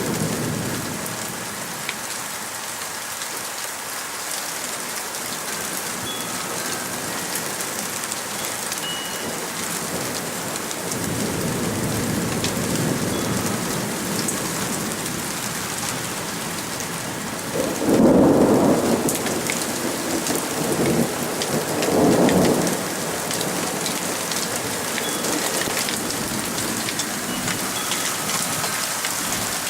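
Steady heavy rain with thunder: a low rumble builds and fades about a third of the way in, then a loud thunderclap comes about 18 seconds in and a second burst of thunder a few seconds later.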